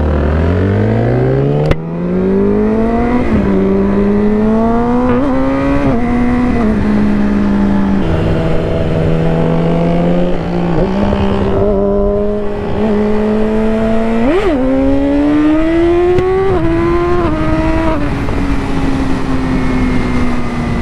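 Yamaha R6 600 cc inline-four accelerating hard from low revs, its pitch rising, with quick upshifts about three and six seconds in, then pulling on again; a short sharp rev spike about fourteen seconds in. A sharp click about two seconds in, and wind noise under the engine.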